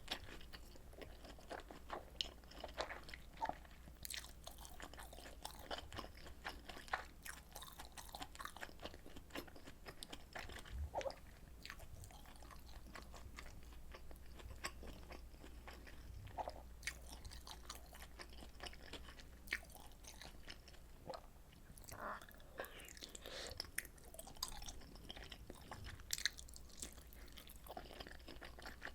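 Close-miked eating sounds of a person chewing and biting food, with irregular small wet clicks and light crunches throughout.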